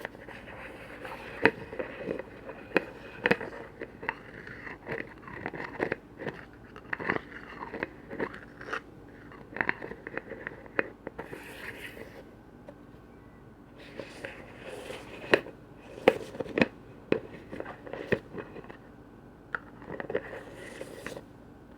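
Irregular tapping and clicking on containers and their lids, close-miked, with short scraping bursts about halfway through and again near the end.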